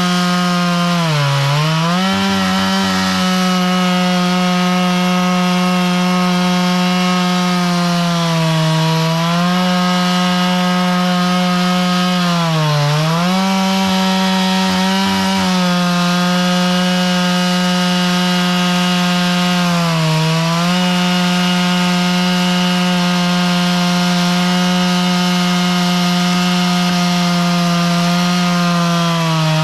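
Chainsaw running at full throttle, ripping lengthwise through a log to mill lumber. Its pitch holds steady and sags briefly every several seconds as the engine bogs under the load of the cut.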